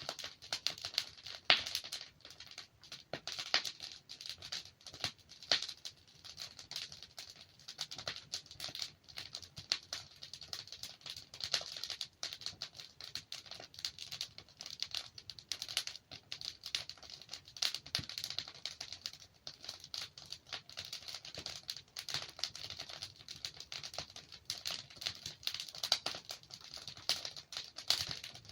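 Wood fire burning in a fireplace, logs crackling and popping: a dense, irregular run of small snaps, with a sharper, louder pop about a second and a half in.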